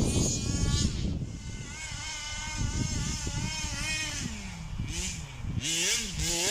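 Zenoah G320 two-stroke engine of a 1/5-scale Rovan Baja RC car with a VRC big-bore exhaust, revving up and down as the car is driven. It runs hard at first, its pitch wavers from about a second in, and it revs up sharply in quick rises near the end.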